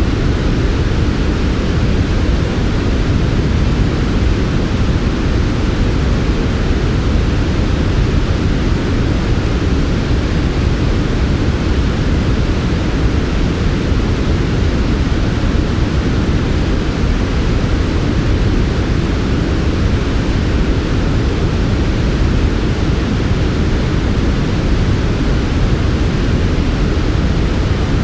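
Steady, smooth synthetic white-noise track for sleep, filtered so it is heavier in the low end: an even, deep hiss that never changes.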